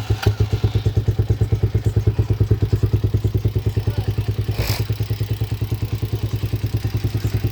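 Hawk 250 DLX dirt bike's single-cylinder four-stroke engine idling: a steady, even putt of about eleven firing pulses a second. One sharp click comes about halfway through.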